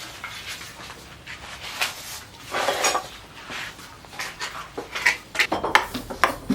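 Irregular metal clinks and short scrapes, about a dozen over several seconds: hand work on a metal piece.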